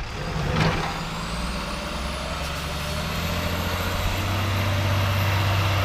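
A truck's engine running, its low note growing steadily louder about halfway through, with a faint high whine above it.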